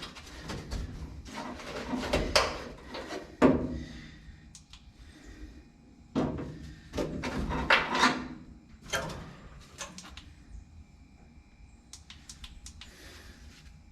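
Irregular clunks, knocks and scrapes of metal window hardware being worked loose inside a 1955 Chevrolet 210 door, with a sharp knock a few seconds in. It goes quieter after about ten seconds, leaving a few light clicks.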